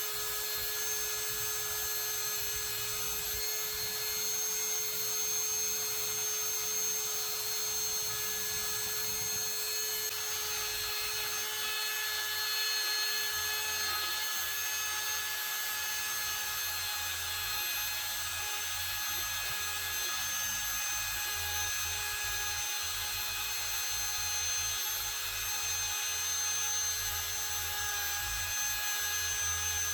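Power tool spinning a wire wheel against a rusty antique ice claw, scrubbing off the rust with a steady whine.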